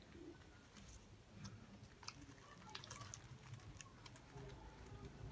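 Faint chewing of pizza with scattered small mouth clicks and ticks, close to near silence.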